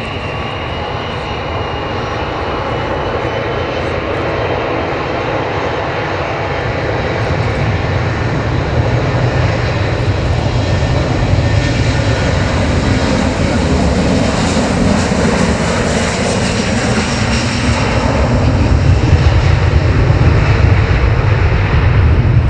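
Boeing 737-400 airliner's twin CFM56-3 turbofan engines, a loud steady jet roar that builds as the departing aircraft comes past, turning into a deeper rumble near the end.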